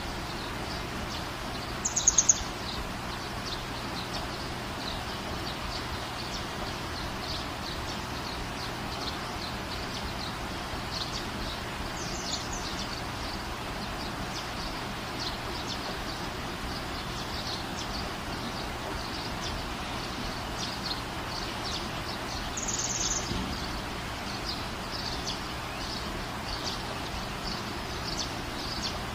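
Small birds chirping in short high notes against a steady background hiss, with a brief louder burst about two seconds in.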